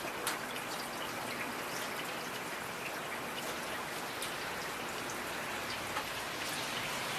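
Steady rainfall, an even hiss with individual raindrops ticking throughout and one sharper drop about a third of a second in.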